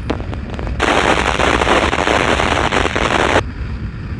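Police scanner putting out a burst of crackling radio static for about two and a half seconds, starting about a second in and cutting off suddenly. A steady low rumble from the motorcycle ride runs underneath.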